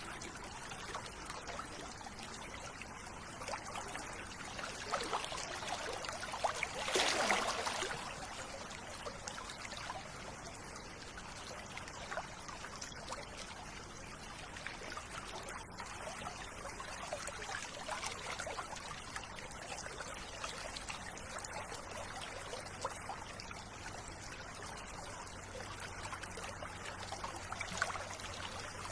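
River water flowing and trickling, with a louder splash about seven seconds in.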